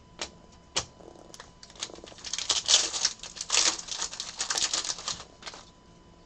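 Trading cards being handled and flipped through: a few single clicks, then about two seconds in a rapid run of clicking and crackling of card stock and plastic that stops shortly before the end.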